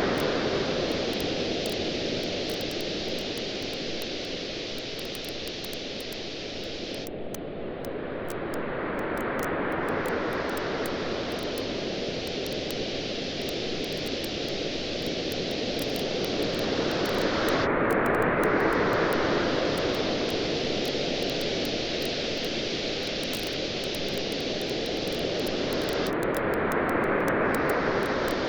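Waves washing onto a beach, swelling and fading about every nine seconds, with a campfire's small crackling pops throughout.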